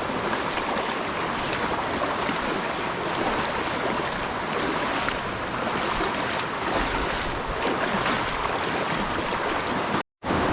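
Steady rush of flowing river water, an even noise with no clear rhythm. It drops out for a split second near the end.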